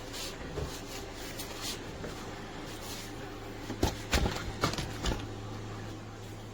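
A quick cluster of sharp knocks and clicks about four seconds in, over a steady low hum.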